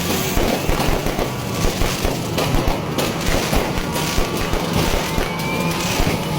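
Fireworks going off in a dense barrage of rapid bangs and crackling, with a short rising whistle about five seconds in.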